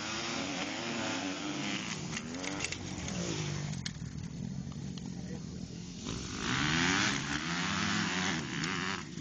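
Motocross motorcycles revving and racing past, engine pitch rising and falling as they shift and go by. One pass comes early and a louder one follows about two-thirds of the way through.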